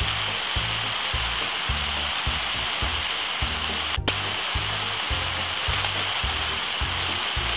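Minced beef and chopped vegetables sizzling in a frying pan as the meat browns, a steady hiss, with a low beat of background music underneath.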